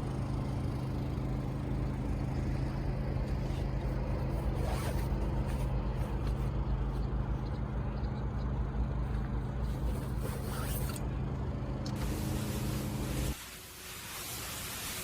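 A car engine running steadily with a low, even hum that cuts off about 13 seconds in, leaving a steady hiss.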